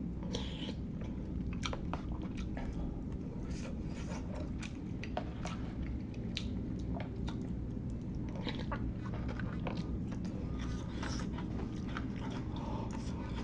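Close-miked eating of instant hot pot: a person chewing and biting noodles and sausage, with many short irregular wet clicks and crackles over a steady low hum.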